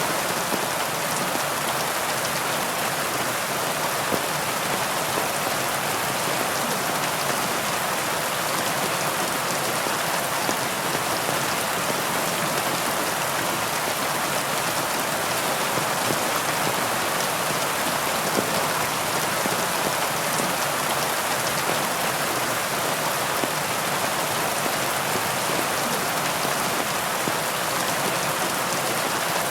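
Heavy rain falling steadily: an even hiss of many drops, with an occasional slightly louder drop.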